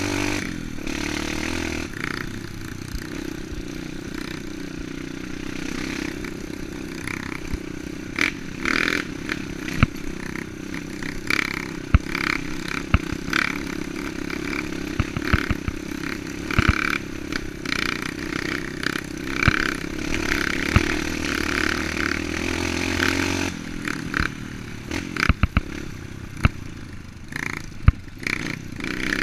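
Enduro dirt bike engine running steadily while riding a rough off-road trail, with frequent clattering knocks and scrapes.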